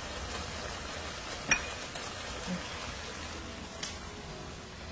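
Garlic ginger shrimp sizzling in a pan on high heat, its cooking liquid boiling down: a steady hiss. There is a sharp clink about one and a half seconds in.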